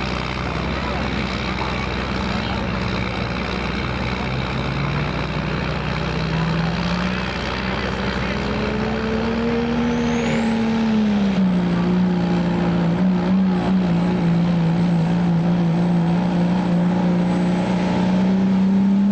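Stock diesel pickup truck engine running, its pitch rising gradually, dropping a little about eleven seconds in, then holding steady. A high whistle comes in around ten seconds and holds.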